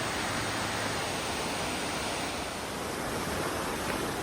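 Large waterfall rushing: a steady, even roar of falling water.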